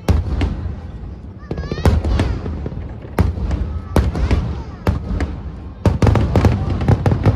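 Aerial firework shells bursting in quick succession, a string of sharp bangs roughly every half second to second, each trailing off into a deep rumble.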